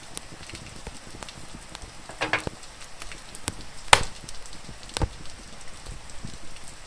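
Wood fire crackling with a few sharp pops, the loudest about four seconds in, over a steady hiss of rain.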